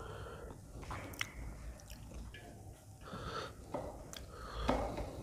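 Close-miked chewing of aloo paratha, a potato-stuffed flatbread: soft wet mouth sounds with a few sharp clicks, the loudest near the end.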